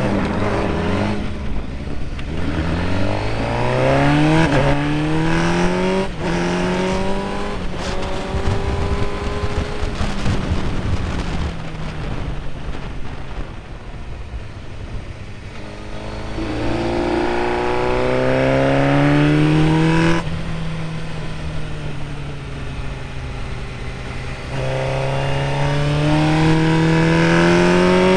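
Motorcycle engine accelerating hard through the gears. Its pitch climbs and drops back at each upshift, falls away for a while in the middle as the throttle is eased, then pulls up through the gears again.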